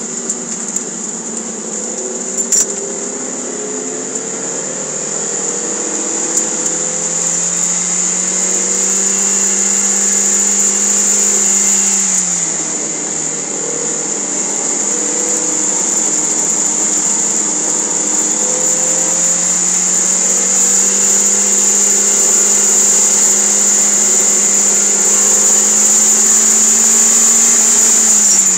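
Toyota MR2 Spyder's four-cylinder engine, heard from inside the cabin, pulling hard on track with its pitch climbing, falling about twelve seconds in, then climbing steadily again before falling away right at the end. A steady high-pitched whine runs over it throughout.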